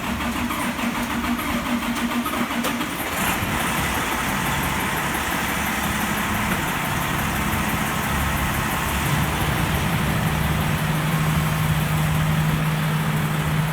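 Fire apparatus engine running with a steady low hum that grows louder from about nine seconds in.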